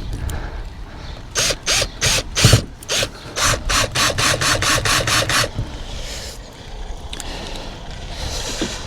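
Screws being started by hand with a screwdriver into solar panel mounting brackets on a van roof: about a dozen short rasping strokes, roughly three a second, stopping after about four seconds.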